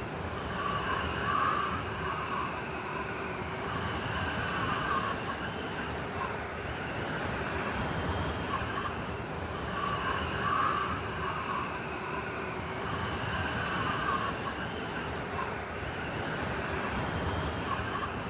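Blizzard wind howling: a steady rush with whistling tones that swell and fade in slow gusts every few seconds.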